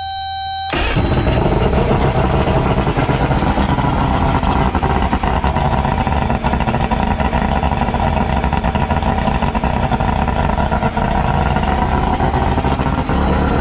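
Two-stroke outboard motor starting up and running steadily. A steady warning buzzer tone sounds for the first moment, then the engine fires abruptly, under a second in.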